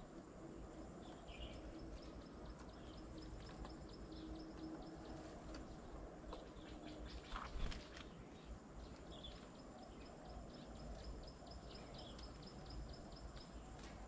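Faint outdoor ambience with scattered short bird chirps, and a rapid, even series of high ticks that runs for several seconds, stops, and starts again. A brief louder sound comes about seven and a half seconds in.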